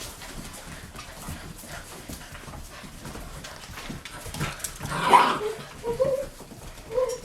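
Eight-week-old golden retriever puppies yipping and whining, with one louder yelp about five seconds in followed by several short high whines.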